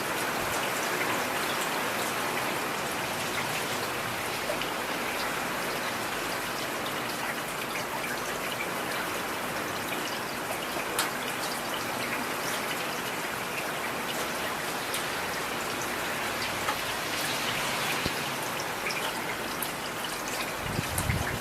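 Steady heavy rain, with scattered individual drops pattering sharply on a surface.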